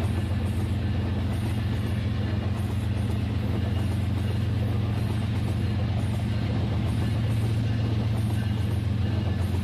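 Battery-powered Rail King toy train running on its track: a steady low hum from its motor and gears, with a faint high rattle repeating at a regular pace.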